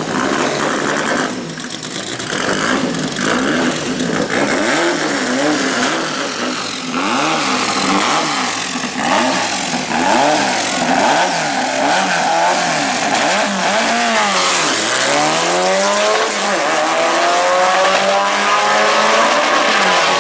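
Two air-cooled VW Beetle drag-racing engines, one of them a 2.3-litre with a belt-driven Paxton supercharger, revving up and down over and over at the start line. About three-quarters of the way through they launch, and the engine note climbs steadily as the cars accelerate hard down the strip.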